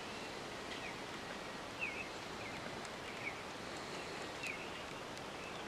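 Songbirds giving short, faint chirps about once a second over a low, steady outdoor background hiss.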